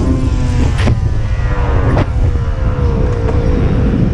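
Dirt bike engine running under way, its pitch falling steadily as it slows, over heavy wind rumble on the microphone. Two short sharp clicks sound about one and two seconds in.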